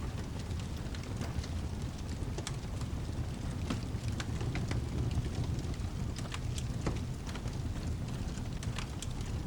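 Steady rain with a low rumbling bed and scattered sharp crackles and pops from a wood fire, at an even level.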